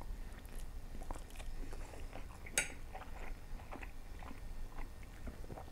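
Close-miked chewing of a mouthful of noodles: soft, wet mouth clicks, with one sharper click about two and a half seconds in.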